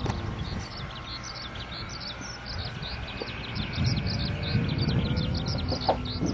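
Many small birds chirping in a rapid, continuous chorus, with irregular low rumbling and knocking underneath that grows louder in the second half.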